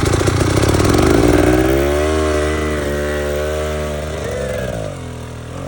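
A small petrol engine fires up and runs at high revs, its pitch wavering up and down, then eases back to a lower, steadier note about four to five seconds in.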